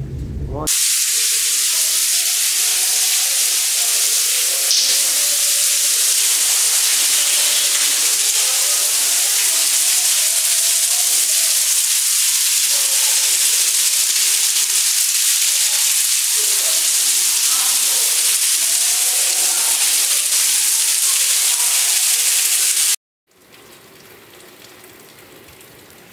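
Heavy rain pouring down in a loud, steady hiss. About 23 seconds in it cuts off abruptly and gives way to a much quieter steady patter of rain.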